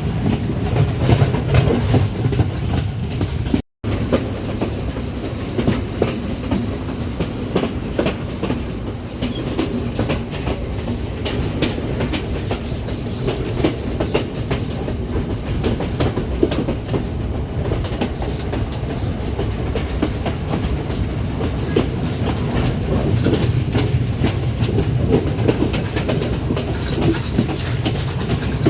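Passenger train running along the track, a steady rumble with the wheels clattering over rail joints. The sound drops out completely for a split second about four seconds in.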